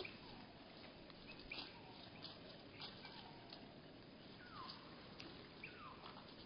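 Bird calls slowed to a third of their speed, so they come out low and drawn out as several falling glides. Faint clicks are scattered between them.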